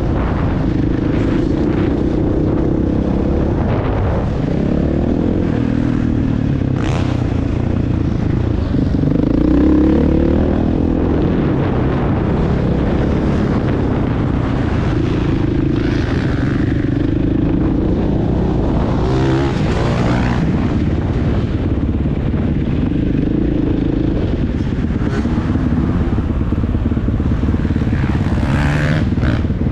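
Motocross bike engine running hard and revving up and down over and over, its pitch rising and dropping every few seconds as the rider works the throttle and gears.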